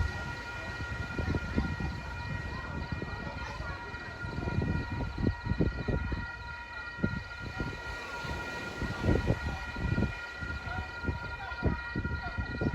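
A steady high whine made of several pitches, held unchanged, over irregular low rumbling thumps.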